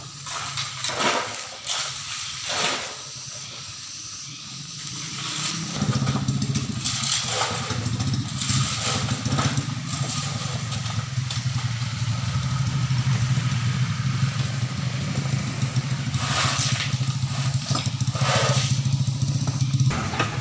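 An engine running steadily, growing louder about six seconds in, with several short hissing sweeps over it.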